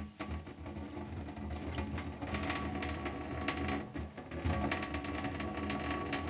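Tap water running in a thin stream, with a steady low hum and scattered small clicks and splashes.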